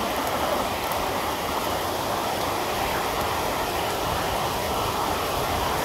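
Steady rain falling, an even rushing noise throughout.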